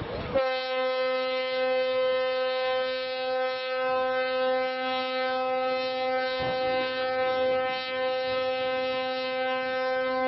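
A single long horn blast held at one steady pitch for about ten seconds, stopping near the end.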